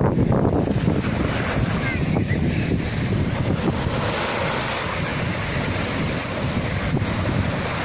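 Sea waves breaking and washing on the shore, a steady rushing surf with a heavy low rumble and a hissing wash that fills in after about a second, with wind buffeting the microphone.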